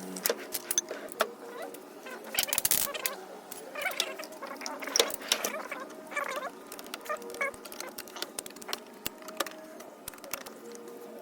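Metal hand tools, mostly sockets, clinking and rattling as they are picked up and set down in a steel toolbox drawer: many irregular sharp clicks and knocks, with brief flurries of rattling.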